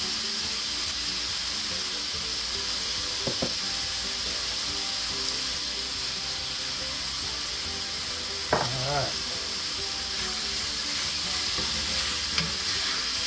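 Steak, onion and bell pepper sizzling steadily in a hot cast-iron skillet, with a wooden spoon starting to stir and scrape the pan near the end. A short hum of a voice is heard about two-thirds of the way through.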